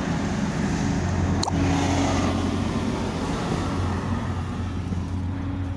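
Ship's engine running steadily aboard a passenger ship, a constant low hum under wind and water noise, with a short click about one and a half seconds in.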